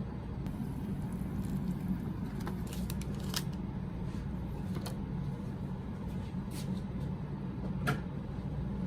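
A steady low hum with a few scattered light clicks and taps, like the sounds of small items being handled.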